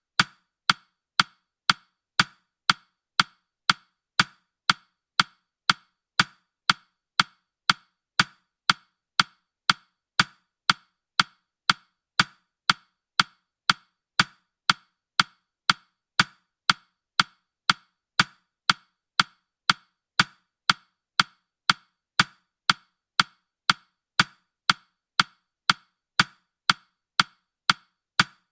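Ticking sound effect: sharp, woody clock-like ticks repeating evenly, about two a second, counting off the countdown.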